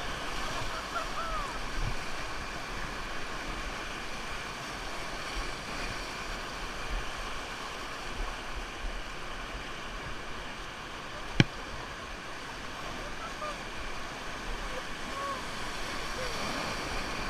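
Steady rush of a fast mountain river, with one sharp click about eleven seconds in.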